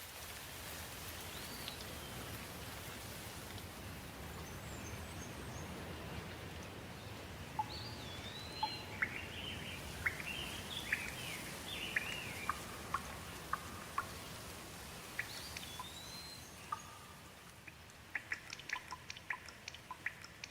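Steady light rain with small birds chirping and whistling over it, busiest in the middle. Near the end the rain thins and water drips fall in quick succession.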